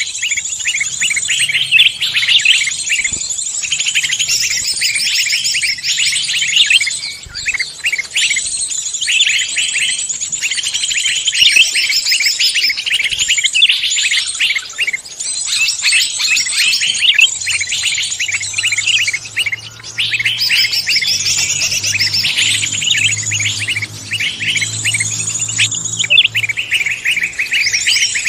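Dense chorus of many songbirds chirping and trilling over one another, a mixed bird-lure recording of forest songbirds. A low steady hum joins in past the halfway point.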